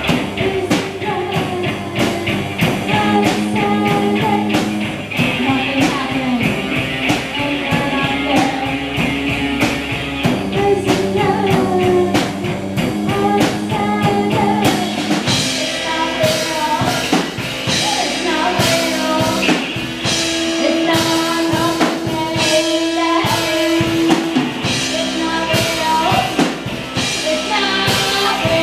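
Rock band playing, with drums and guitar over a steady beat; about halfway through the drumming gets heavier, with cymbals more prominent.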